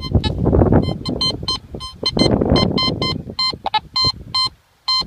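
Teknetics Gamma 6000 metal detector giving short repeated high-pitched beeps, several a second, as the coil is swept over a strong target, with rustling noise underneath. A high target ID reading that the detectorist takes as a good signal.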